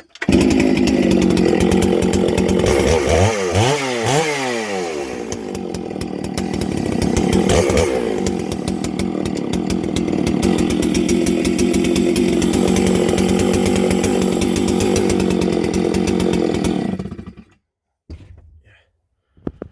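Stihl 064 two-stroke chainsaw running, revved up and down quickly a few times early on, then held steady before the engine stops near the end. The saw has just been rebuilt, with the ignition timing left slightly advanced.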